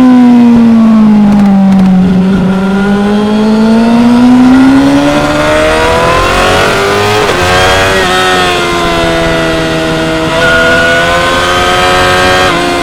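2016 Yamaha R6's 599 cc inline-four engine at racing revs on track: the engine note falls for about two seconds as the bike slows, climbs hard again, then carries on high with a few quick steps in pitch at gear changes.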